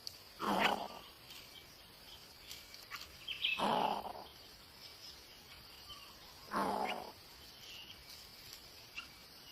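Coucal nestlings giving harsh, raspy hissing calls: three short bursts about three seconds apart.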